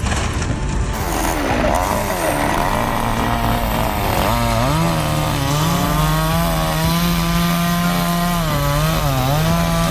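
Chainsaw engine revving up and down, then from about four seconds in held at high revs with its pitch sagging briefly a couple of times, as when the chain bites into wood.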